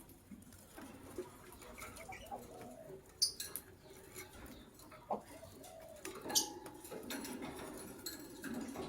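White lovebirds giving short, sharp chirps at a low level, the two loudest about three and six seconds in, over a low steady murmur.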